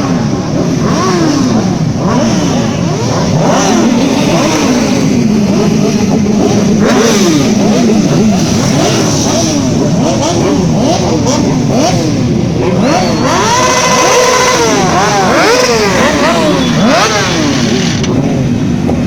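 Several racing motorcycle engines revving, their pitches rising and falling and overlapping as they accelerate and shift. About two-thirds of the way through, one engine revs up and down louder and higher.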